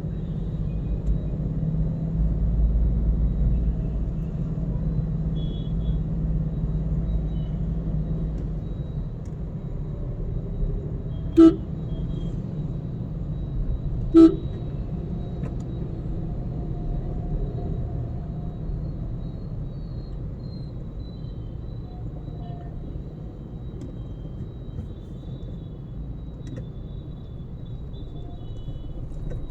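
Steady low rumble of a car's engine and road noise heard from inside the cabin in traffic, with two short, sharp horn toots about three seconds apart in the middle.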